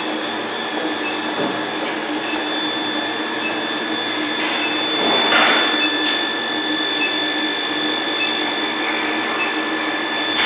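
Induction melting furnace and its machine running under power while heating steel rods: a steady noisy hum with several steady high whining tones, and a brief louder rushing swell about five seconds in.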